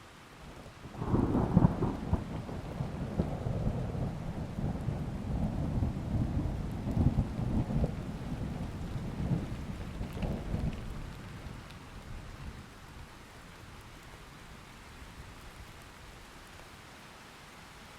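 A long roll of thunder over steady rain. It breaks about a second in with a sharp crackle, rumbles on for about ten seconds, and fades away, leaving only the rain.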